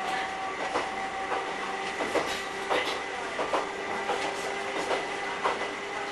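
Local electric train running along jointed single track, heard from inside the cab: irregular clicks of the wheels over rail joints over a steady whine.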